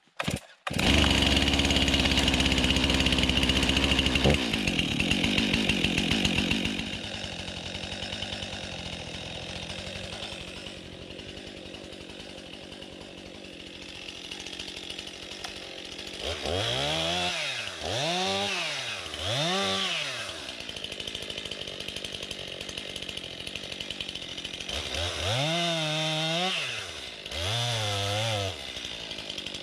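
STIHL MS261 chainsaw's two-stroke engine warming up: it runs loud and fast at first, drops to a steady idle about four seconds in, then is revved three times in quick succession and, near the end, twice more, each rev rising and falling in pitch.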